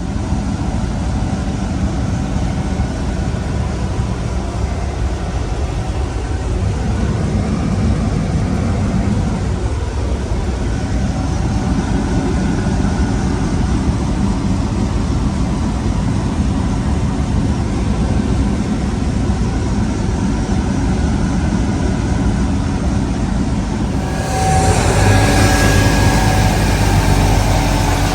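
Heavy farm vehicle engine running steadily with a dense rumbling noise. About 24 seconds in, the sound gets louder and a few steady whining tones come in.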